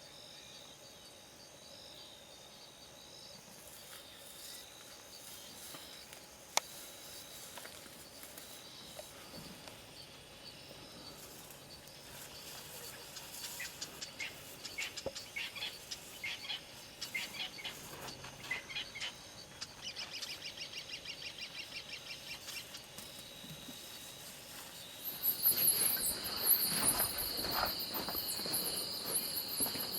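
Outdoor bush ambience of birds calling and insects chirping, with a single sharp click a few seconds in. In the middle come runs of short bird calls, then a rapid even trill. Near the end a louder, steady high-pitched insect buzz sets in, with high chirps over it.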